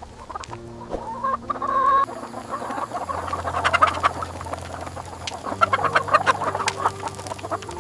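Chickens clucking in quick runs of short calls, coming in two busy bouts.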